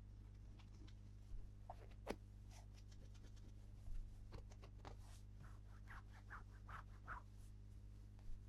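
Faint clicks, taps and scratching of plastic toy pieces being handled, with a quick run of small scrapes about six to seven seconds in, over a steady low hum.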